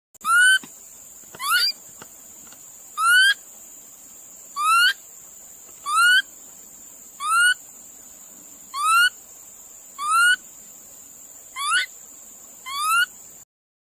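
A bird calling: a short, clear note that slides upward, repeated ten times about every second and a half over a steady background hiss.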